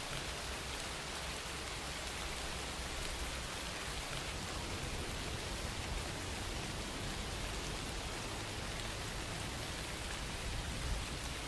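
Steady rain falling on a surface, an even hiss without pauses.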